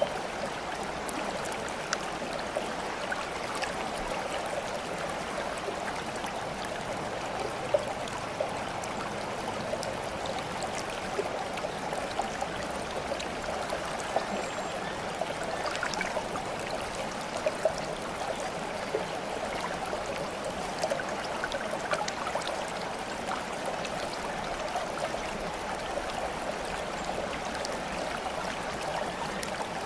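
Flowing water: a steady trickling, babbling stream sound, with a few brief sharp drips or splashes scattered through it.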